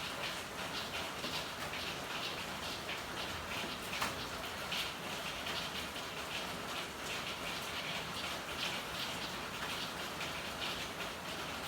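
Steady rain falling in an alley, a dense patter of drops, with one sharper drip about four seconds in.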